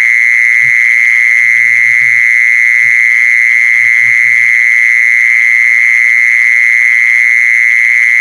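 A jee-son insect (แมงจีซอน) calling in one loud, unbroken high trill, a rapid pulsing buzz.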